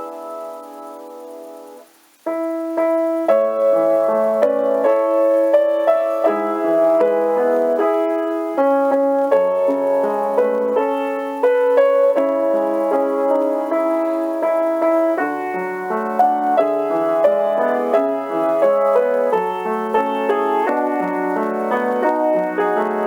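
Solo piano music: a held chord dies away, there is a brief pause about two seconds in, then a continuous flow of notes and chords resumes.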